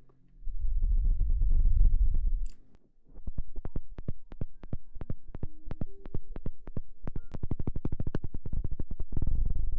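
Close-miked ASMR trigger sounds. A low rumble on the microphone lasts about two seconds. Then comes a long run of soft, even, muffled thumps that quicken from about five to about eight a second, like a helicopter rotor.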